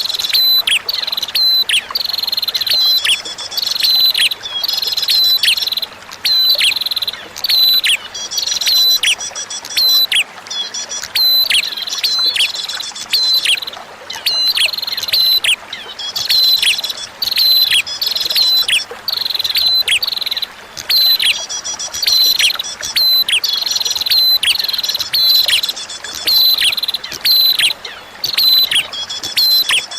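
Recorded prenjak (prinia) song: rapid high chirps with sharp downward-swept notes in quick repeated phrases, broken by brief pauses, over a steady trickle of running water.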